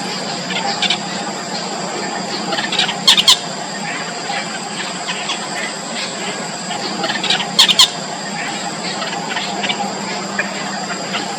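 Four-day-old nestlings begging for food: thin, high-pitched peeping throughout, with short loud bursts of squeals about three seconds in and again about seven and a half seconds in. A steady background hum runs under the calls.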